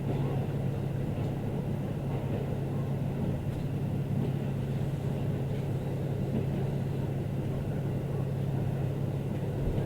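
Diesel railcar running along the line, heard from on board: a steady low hum over a continuous rumble.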